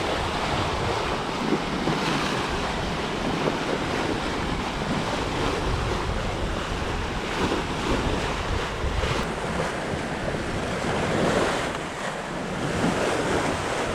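Sea rushing along the hull of a sailing yacht making about 7 to 8 knots, with steady wind buffeting the microphone.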